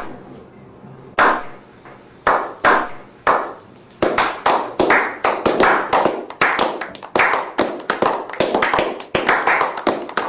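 Hand clapping: a few separate claps for the first four seconds, then quicker, overlapping claps as a small group breaks into applause.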